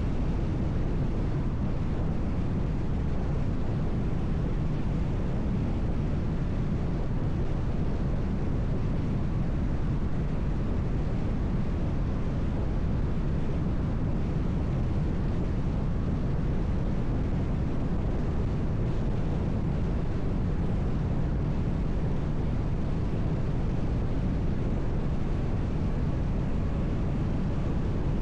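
Car driving at highway speed: a steady, even rumble of tyre and road noise with engine hum, the same level throughout.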